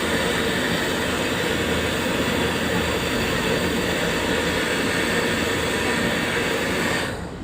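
A machine running with a steady, loud rushing noise and a faint hum, cutting off about seven seconds in.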